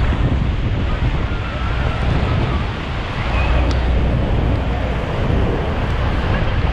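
Steady roar of Niagara Falls and its drenching spray, heard up close from the tour boat, with heavy wind buffeting the microphone.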